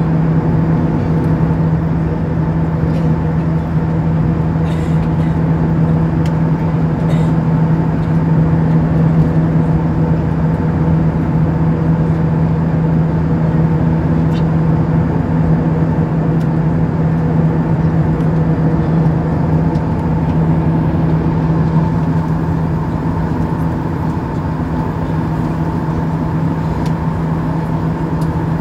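Cabin noise of an Airbus A320-232 with IAE V2500 engines: a loud, steady rush of engine and air noise with a constant low hum.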